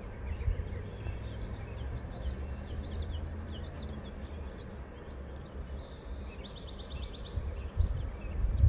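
Low, steady rumble of a distant freight train, with small birds chirping throughout and a quick bird trill near the end.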